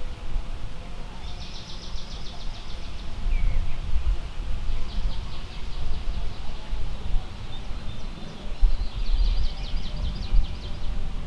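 A songbird singing three short, rapid trills of quickly repeated high notes, over a steady low rumble of wind on the microphone, which is the loudest sound.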